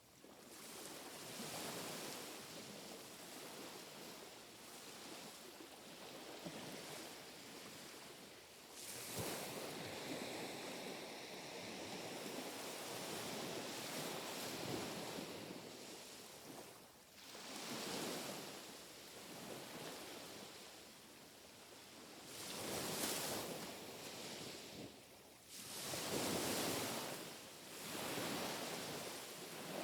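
Small, gentle sea waves washing onto the shore one after another, each wash swelling and falling away every few seconds.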